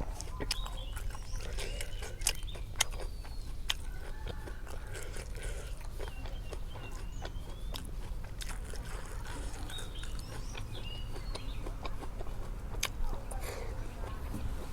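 A person chewing crunchy food close to the microphone, with many sharp crunches and clicks. Birds chirp in short gliding notes in the background.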